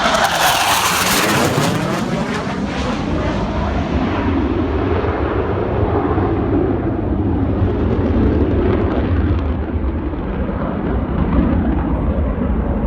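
Low-flying military jet passing close by: a high engine whine drops sharply in pitch as it goes past, with a burst of jet roar, then a heavy low rumble that lingers.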